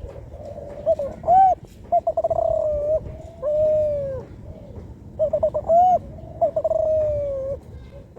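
Young spotted dove, about four months old, cooing two song phrases, each a run of quick stuttered notes and a short rounded note followed by a long, slowly falling coo. It is a juvenile still learning to shape its song.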